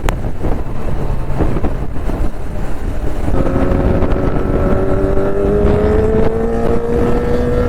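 Wind rush and road rumble from a moving motorcycle. About three seconds in, a motorcycle engine note comes in and its pitch rises slowly and steadily.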